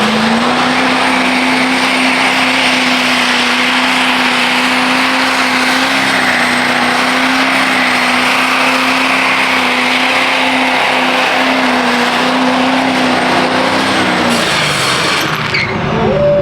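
Truck engine held at steady high revs for about fourteen seconds over a constant hiss of spinning tyres, as in a burnout. Near the end the revs drop off and waver.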